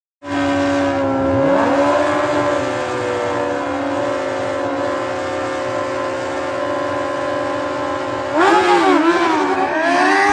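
Motorcycle engine held steady at high revs, then revved up and down several times near the end.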